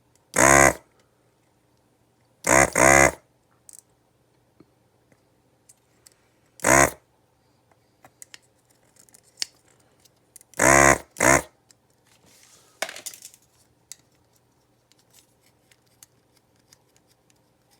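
Desoldering gun's vacuum pump buzzing in six short pulls, some in quick pairs, sucking molten solder off the relay's pins to free it from the circuit board. A faint steady hum runs underneath.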